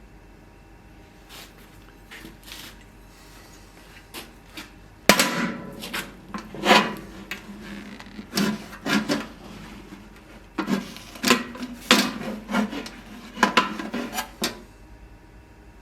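Irregular knocks and short scrapes of hand tools on metal, a few faint ones at first and louder, closer-spaced ones through most of the rest.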